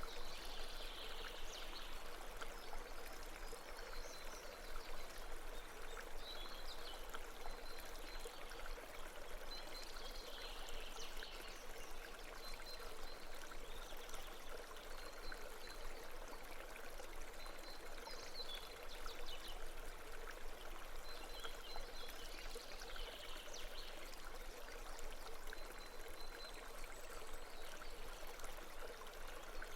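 Steady rush of a babbling brook, with faint short high chirps recurring every few seconds.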